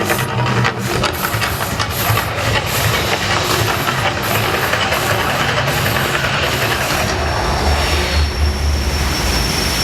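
Mirage volcano show erupting: a steady, loud rushing hiss over a low rumble, the rumble swelling deeper about seven and a half seconds in.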